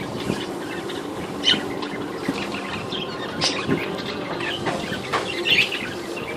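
English budgerigars chirping in short, scattered calls over a steady low hum.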